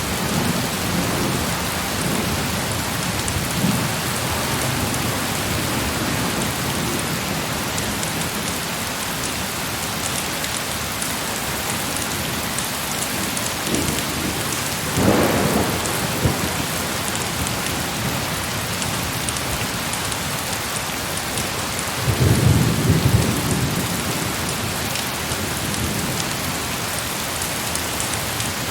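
Heavy rain falling steadily, with rolls of thunder: one about halfway through and a longer, louder rumble near the end.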